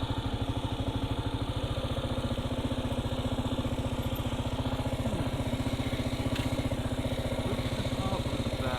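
Kawasaki KLR650's single-cylinder four-stroke engine running steadily, its exhaust pulsing in an even, rapid beat.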